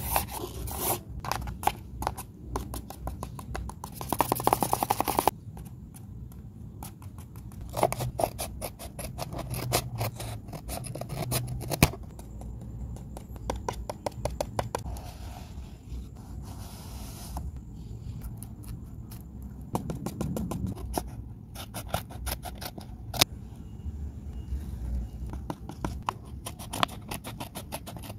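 Paper cut-outs being handled: a string of crackles, rustles and clicks of stiff folded paper, with a dense run of rapid crackling about four seconds in.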